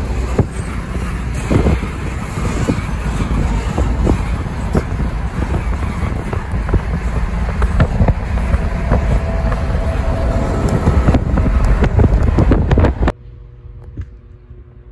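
Freight train of refrigerated boxcars rolling past close by: a steady, loud rumble of steel wheels on rail with frequent sharp clacks. It cuts off abruptly about 13 seconds in, leaving a faint outdoor background.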